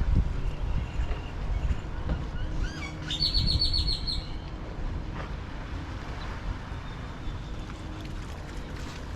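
A bird calls once about three seconds in: a few short gliding notes, then a rapid run of about eight high notes lasting about a second. A steady low rumble of wind and surf runs underneath.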